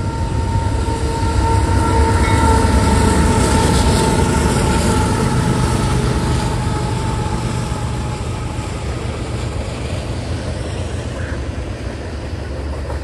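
Diesel freight train passing while climbing a grade: the locomotives' heavy engine rumble with a faint steady whine swells to its loudest a couple of seconds in, then eases into the rolling rumble of the freight cars.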